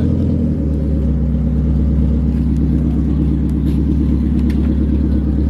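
Car engine running steadily at low revs, a loud, even, low pulsing exhaust note.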